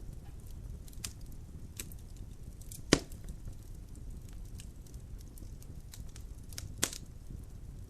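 Wood logs burning in a fireplace: a low steady rumble of flame with scattered sharp crackles, two louder pops about three seconds in and just before the end.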